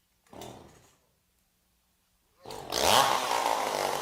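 A short rough burst, then about two and a half seconds in a two-stroke chainsaw engine starts up and revs, its pitch rising and then holding high.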